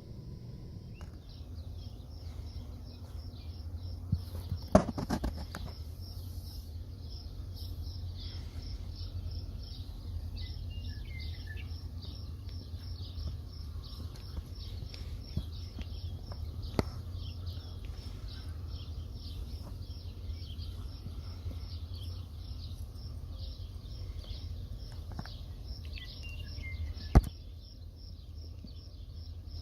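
A high chirp repeated several times a second without a break, over a steady low rumble. A few other chirps and a handful of sharp knocks come through, the loudest about five seconds in and near the end.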